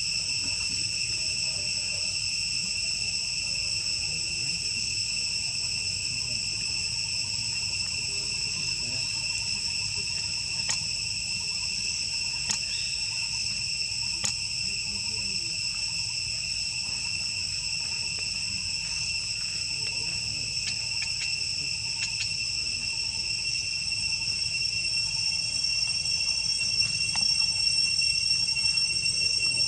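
Insects chirring in a steady high-pitched drone, with a few faint clicks.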